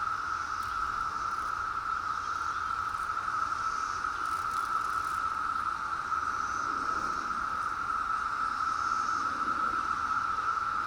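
Chorus of periodical cicadas (Magicicada): a steady, unbroken drone at one pitch.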